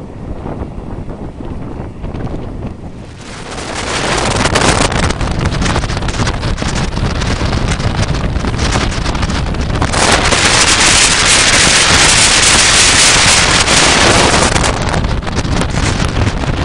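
Moving passenger train heard from aboard: a low running rumble, then from about three and a half seconds in a loud rushing noise of wind on the microphone that swells again about ten seconds in and eases slightly near the end.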